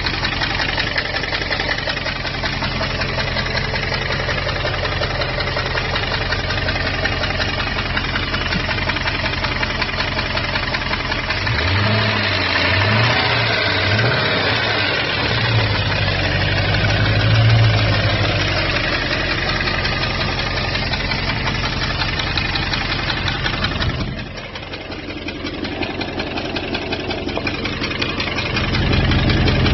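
2002 Jeep Grand Cherokee WJ's 4.7-litre V8 running with an abnormal engine noise, which the owner suspects comes from an exhaust manifold coming loose. The engine is briefly revved, wavering up and down about midway. It goes quieter a little later and gets louder again near the end.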